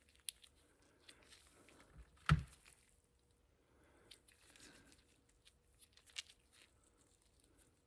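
Faint, sticky squishing and small handling noises of marine grease being packed by hand into a bicycle hub's bearing cup, with one louder knock about two seconds in.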